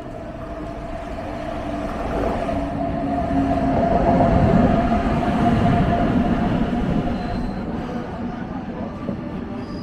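A train running past, its rumble building to a peak about halfway through and then fading, with a steady whine over it.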